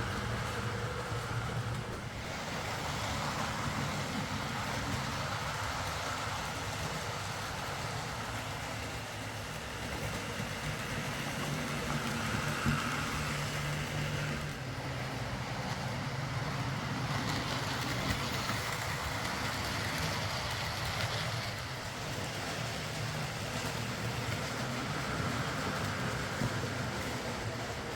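Hornby OO gauge Class A4 "Mallard" model locomotive running on track: a steady electric motor hum and wheel rumble on the rails that swells and dips a little as it moves.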